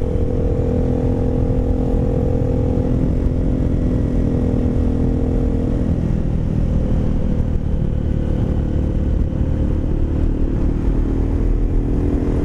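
A 2015 Aprilia Caponord 1200's V-twin running through a GPR Furore carbon slip-on exhaust while riding, holding a steady engine speed. About halfway through the engine note drops back and gets rougher, then comes back near the end.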